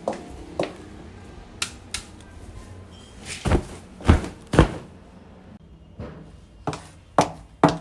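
A series of about ten irregular knocks and thumps in a small room, like doors or cupboards being knocked or shut; the three loudest come in the middle with a deep thud.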